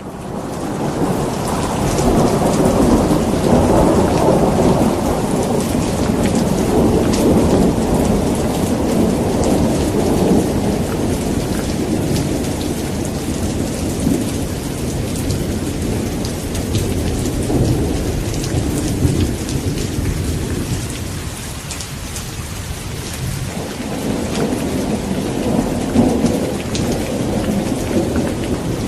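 Steady heavy rain falling, with deep rolling thunder rumbling underneath that swells and fades, easing for a few seconds past the middle before building again.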